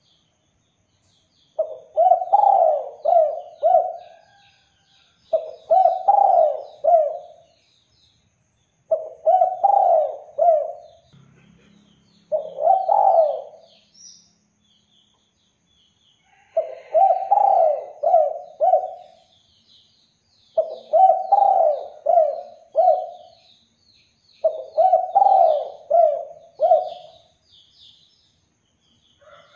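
Spotted dove (derkuku) cooing. It gives seven phrases a few seconds apart, most of them three or four low coos, over faint chirping of small birds.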